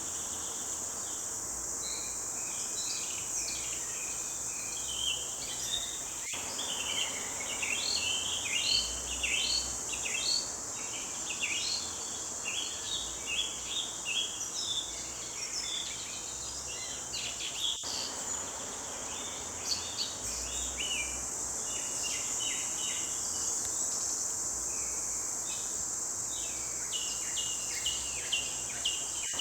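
Several forest birds singing short, rapid chirping phrases that overlap one another, over a steady high-pitched drone of insects.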